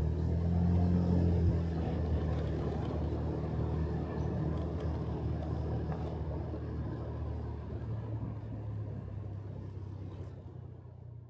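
Motorcycle engine running on the road with wind and road noise, its low hum a little louder about a second in, then fading out gradually over the last few seconds.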